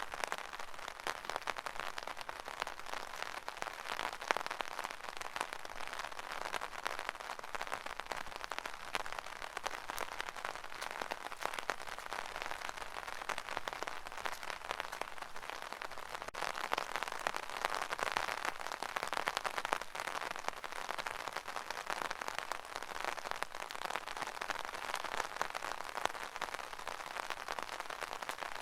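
Rain pattering on an umbrella: a dense, steady patter of many small drop impacts.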